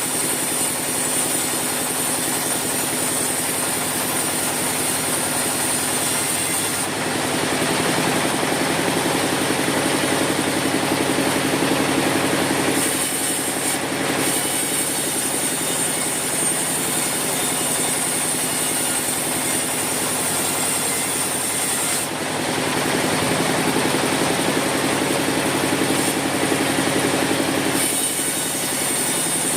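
Sawmill machinery running steadily. Twice, for about six seconds each time, its sound changes and grows fuller and a little louder before settling back.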